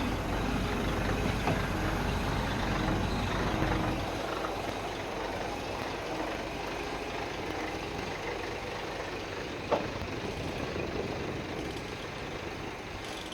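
Low loader truck's diesel engine running under load while hauling the excavator. It is heavier for the first few seconds, then eases to a steadier, quieter run, with a single short knock about ten seconds in.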